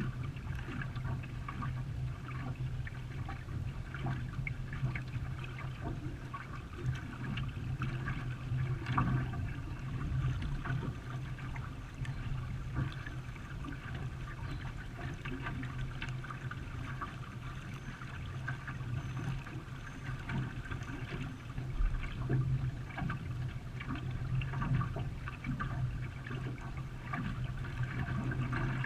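Water splashing and rushing around a racing canoe as it is paddled, with a steady low hum underneath.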